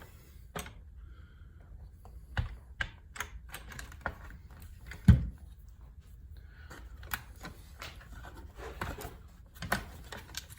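Small metal headlight-assembly parts and hand tools being handled and fitted: irregular clicks and light taps, with one louder knock about five seconds in.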